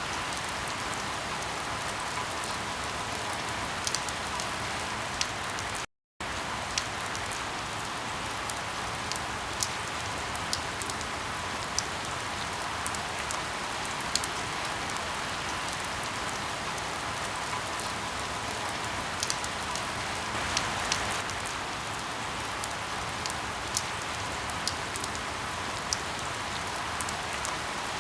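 Steady rain with scattered sharp crackles from burning wood. About six seconds in, the sound drops out to silence for a fraction of a second.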